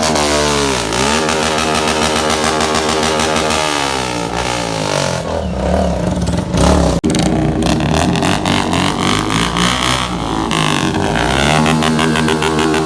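Motorcycle engine revved hard and held at high revs, its pitch dropping sharply just after the start and climbing back, falling and rising again several times, with a brief sharp cut about seven seconds in.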